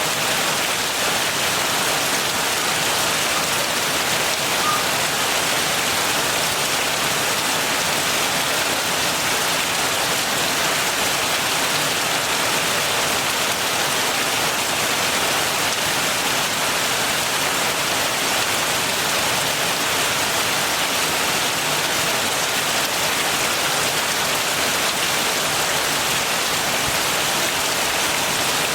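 Heavy rain falling steadily, an even, unbroken hiss of many drops with no thunder.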